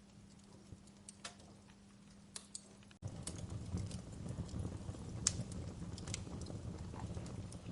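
Fire in a fireplace crackling, with irregular sharp pops. About three seconds in, the sound cuts abruptly to a louder stretch with a low rumble under the pops.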